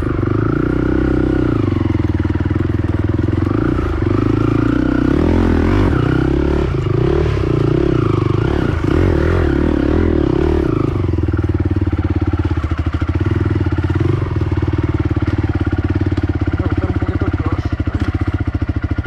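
Honda TRX450R quad's single-cylinder four-stroke engine revving up and down unevenly, then settling into a steady, pulsing idle about eleven seconds in.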